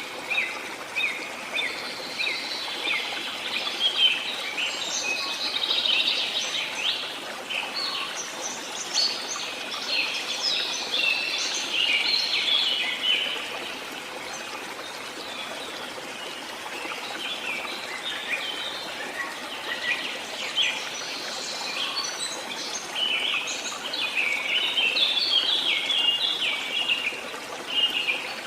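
Several songbirds chirping and singing rapidly over a steady background hiss. The song is busiest in the first half and again near the end, with a thinner stretch in the middle.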